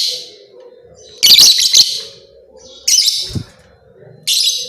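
Lovebird chattering in shrill bursts, each under a second, repeating about every second and a half.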